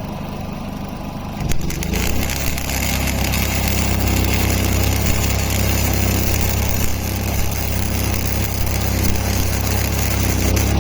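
Metalworking on a steel pulley: a shop tool starts about a second and a half in and runs steadily for about nine seconds over a low, steady machine hum.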